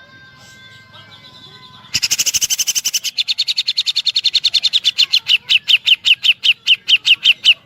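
Cucak jenggot (grey-cheeked bulbul) singing a rapid-fire, woodpecker-like series of sharp notes, starting abruptly about two seconds in, very fast at first and slowing to about five notes a second.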